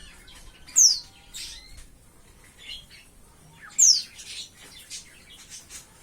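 A young white-eye giving two loud, sharply falling high calls about three seconds apart, with softer short chirps in between: a bird of about five months just starting to learn its song.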